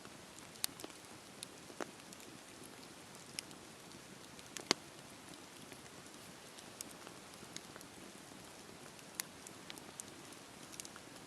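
Campfire crackling: a steady low hiss of burning wood with sharp pops and snaps at irregular intervals, the loudest about four and a half seconds in.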